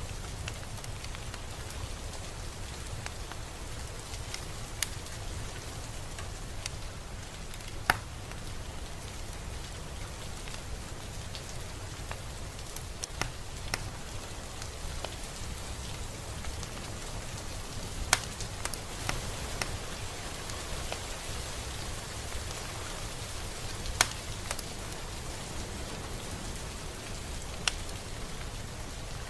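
Steady, gentle rain falling on a surface, with a handful of sharper single drips standing out now and then.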